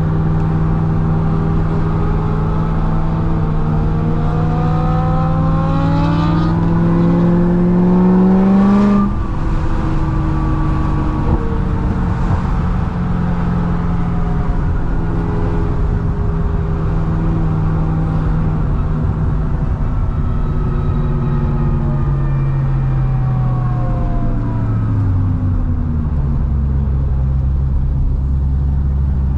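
Supercharged V8 of a modified C6 Corvette ZR1 with a Kong 2650 blower, pulling hard under load. Its engine note and blower whine climb steadily and grow louder for about nine seconds, then power cuts off abruptly. The revs then fall away slowly as the car cruises, with another drop near the end.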